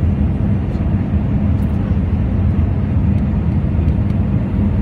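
Airbus A321 noise: a steady low roar.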